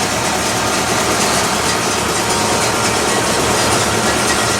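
Car engines running with a steady low rumble under a dense, even wash of noise.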